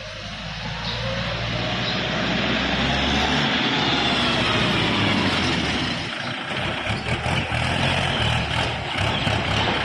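Kubota L4708 DT tractor's diesel engine being throttled up, getting louder and rising in pitch over the first few seconds. It then runs steadily at higher revs with a whine on top.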